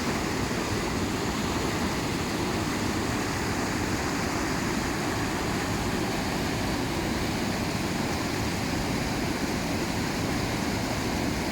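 Flooded river rushing steadily over a weir and through its standing wave, a constant noise without breaks.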